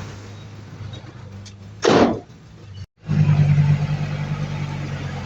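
Heavy diesel engine of earthmoving equipment running, with a short loud hiss about two seconds in; after a brief break the engine comes back louder and steady.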